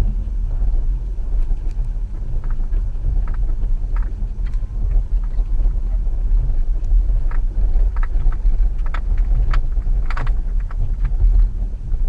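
2014 Subaru XV Crosstrek driving off-road through snow: a steady low rumble with scattered sharp knocks and ticks, thickest from about eight to eleven seconds in.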